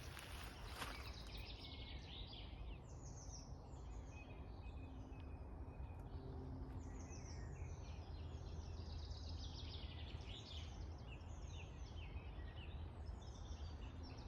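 Several songbirds singing together in spring woodland, with short overlapping chirps and trills, over a low, steady outdoor rumble.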